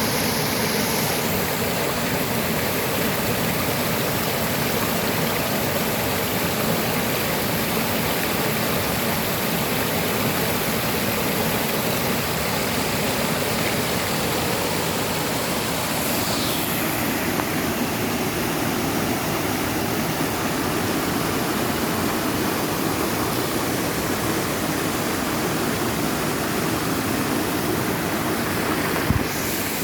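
Waterfall, its falling water rushing in a steady, dense roar. One brief low knock comes near the end.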